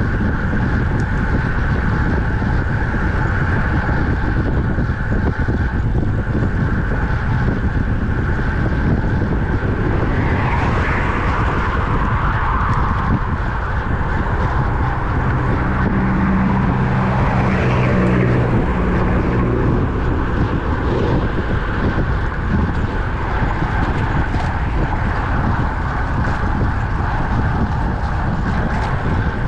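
Steady wind rushing over the microphone of a moving road bike, mixed with road noise. Twice, about a third of the way in and again just past halfway, a motor vehicle passes, swelling and fading; the second carries a low engine note.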